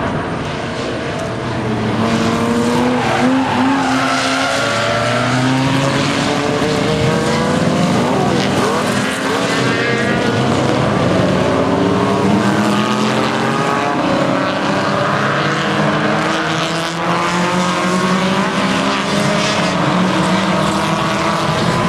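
A field of historic production sports cars racing past, several engines at full throttle overlapping, their pitch rising and falling as cars pass and change gear.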